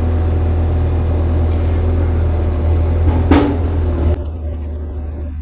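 Excavator's diesel engine running steadily while the machine works. A short higher-pitched sound comes a little after three seconds in, and about four seconds in the engine note drops and quietens.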